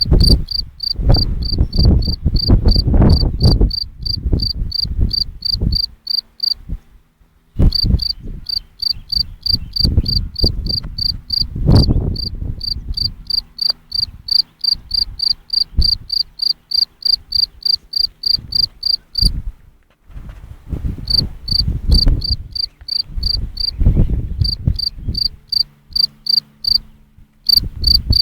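A cricket chirping: short, high chirps about three a second, in long runs broken by a few pauses of a second or so. Loud, irregular low rumbles and thumps run underneath.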